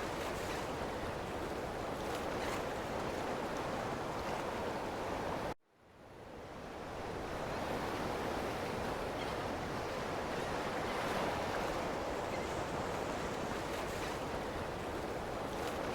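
Ocean waves washing steadily on a shore. About five and a half seconds in, the sound cuts out abruptly and fades back in over a couple of seconds, like an edit or loop seam.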